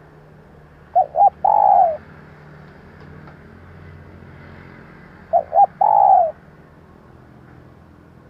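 Female spotted dove cooing: two calls about four seconds apart, each two short notes followed by a longer falling coo. It is the female's call, used to rouse male decoy doves.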